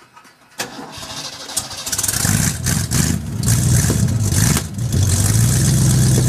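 1965 Lincoln Continental's 430 V8 being started: a short crank, then it catches about two seconds in. It runs unevenly with surges for a few seconds, then settles into a steady idle near the end.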